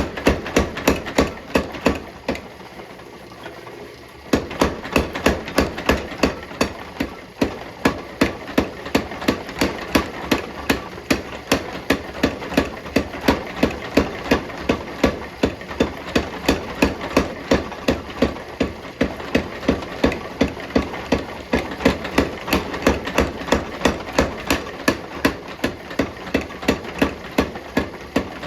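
Steady forging blows of a hammer on hot steel at an anvil, about three strikes a second, pausing for about two seconds near the start.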